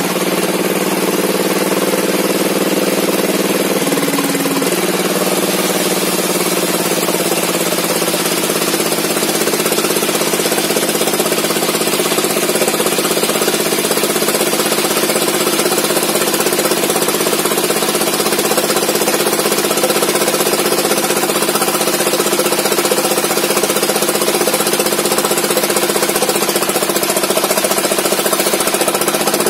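Sawmill engine running steadily and loudly, its pitch settling slightly lower about five seconds in.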